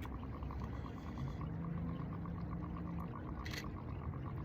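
Water lapping and dripping around a paddleboard on a river, with a brief splash about three and a half seconds in.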